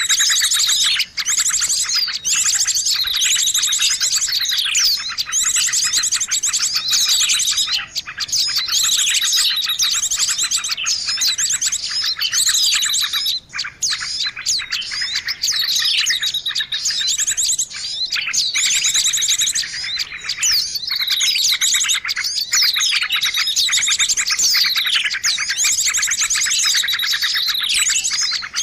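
A busy chorus of many small songbirds chirping and trilling over one another without pause, from a bird-lure recording made to draw small birds in. Falling calls come back every few seconds through the chatter.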